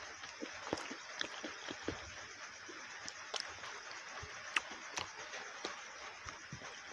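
Close-miked eating of saucy masala chicken wings: wet chewing and lip smacking with many small irregular mouth clicks and snaps.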